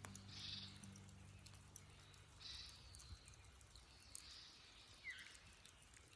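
Near silence with faint bird calls: a few short, high calls spaced a second or two apart, one dropping in pitch about five seconds in.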